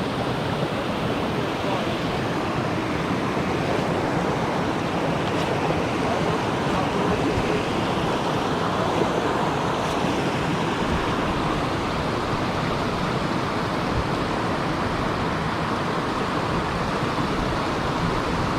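Steady rush of water pouring over a dam, an even noise without a break.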